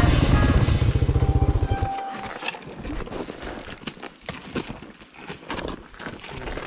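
Dirt bike engine running at a low, even putter as the bike rolls to a stop, then cutting off about two seconds in; after that, scattered crunches and clicks on gravel.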